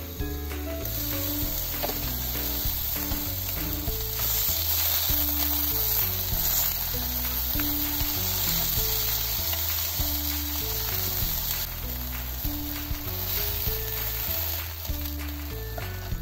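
Stuffed aburaage (fried tofu pouches filled with ground pork and chopped leek) sizzling and frying in a nonstick pan. The sizzle is steady and quietens for the last few seconds.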